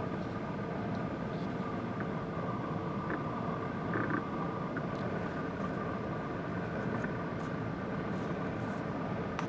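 Steady engine rumble and hum, with a few faint short high sounds over it.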